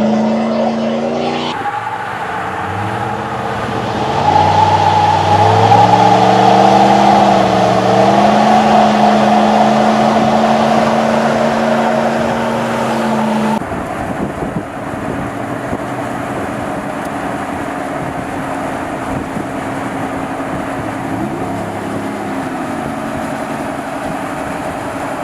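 Ram 1500 pickup's 5.7-litre HEMI V8 running under load: the pitch climbs as it accelerates a few seconds in, then holds steady at cruise. About halfway through an edit drops it to a quieter steady engine drone, with a brief rise in pitch near the end.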